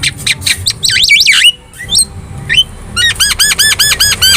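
Javan myna (jalak kebo) singing a varied, loud song: sharp clicks and swooping whistles, then a fast run of repeated arched chirps, about eight a second, over the last second and a half.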